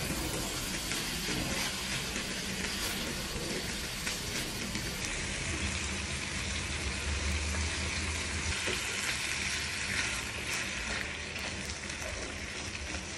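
Chicken and mixed vegetables sizzling and crackling as they stir-fry in a nonstick pan, stirred with a spatula.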